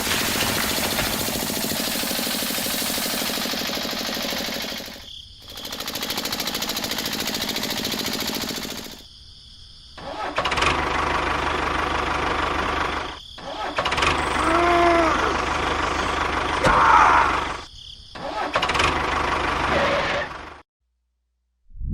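Small motor of a DIY mini tractor running steadily, in several short stretches separated by abrupt cuts. The sound stops shortly before the end.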